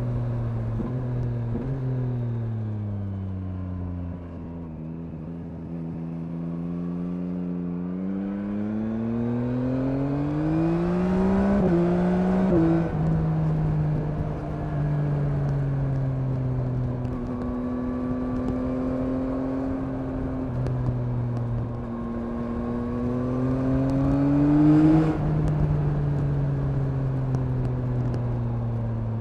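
Yamaha MT-09's 890 cc three-cylinder engine on the road. It winds down over the first few seconds and runs low and steady, then revs up from about eight seconds in and steps down in pitch around twelve seconds, a gear change. It runs steadily for a while, revs up again, and drops suddenly in pitch about 25 seconds in, all over a rushing noise.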